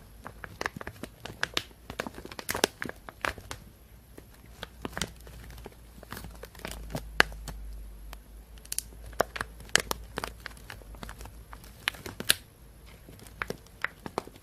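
Plastic bag being crinkled and handled close to the microphones: a dense, irregular run of sharp crackles with occasional louder snaps.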